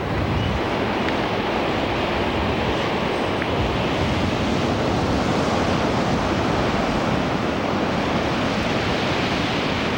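Strong wind and heavy sea surf making a steady, unbroken rush of noise.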